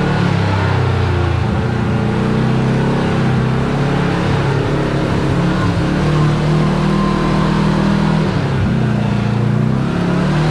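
Side-by-side UTV engine running under way on a dirt trail, its note rising and falling as the throttle changes, dipping briefly near the end before picking up again.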